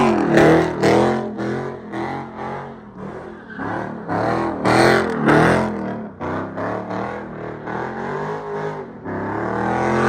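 Car engines revving hard again and again, the pitch rising and falling in quick surges, with the loudest surges around the middle and near the end.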